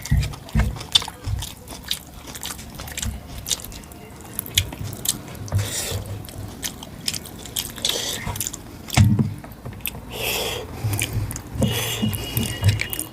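Close-up chewing and wet mouth clicks of someone eating mutton curry with rice, in irregular bursts.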